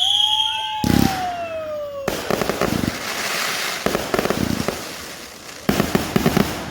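Backyard consumer fireworks going off: whistles sliding down in pitch, sharp bangs about one and two seconds in, then rapid runs of crackling pops with a louder flurry near the end.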